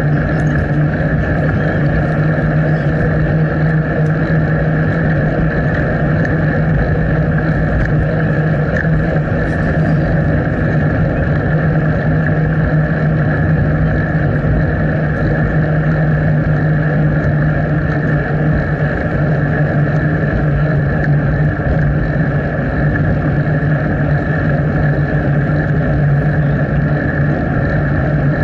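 Steady rushing wind and riding noise picked up by a bicycle-mounted action camera while cycling, a constant drone that never lets up.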